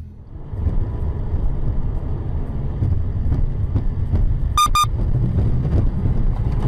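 A car driving, a steady low rumble of engine and road noise. About four and a half seconds in come two short high beeps in quick succession.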